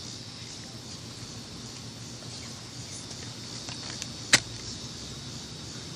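Steady outdoor background with a faint high hiss, broken by one sharp click about four seconds in.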